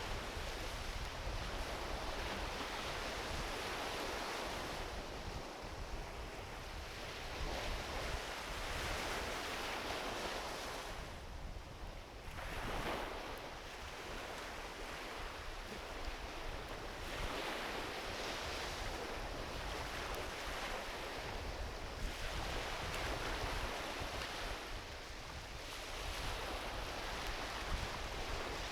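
Gentle ocean waves washing onto a beach, swelling and receding every few seconds with a brief lull about a third of the way in, over a low rumble of wind on the microphone.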